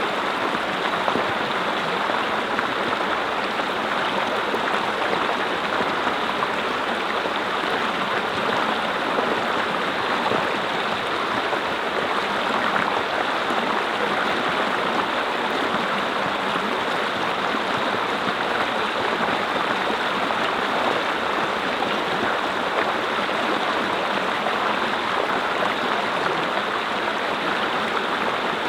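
Mountain brook running over rocks: a steady, even rush and babble of flowing water.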